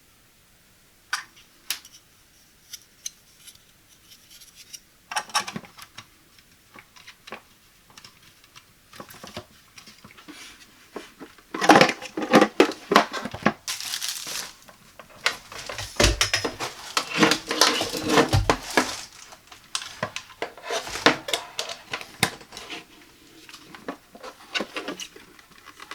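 Hands handling a cool mist humidifier and its packaging: scattered clicks and taps of hard plastic, with a dense stretch of rustling, crinkling and clattering for several seconds midway.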